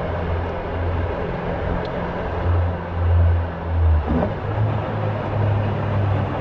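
Caterham Super Seven 1600's engine running on the move: a low drone that swells and fades, over steady road and wind rush. The engine note shifts briefly about four seconds in.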